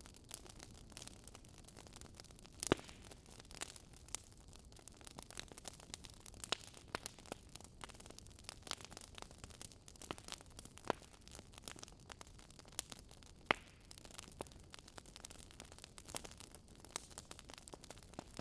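Wood fire crackling over a low steady hiss, with irregular small pops and two louder snaps, about three seconds in and again near thirteen seconds.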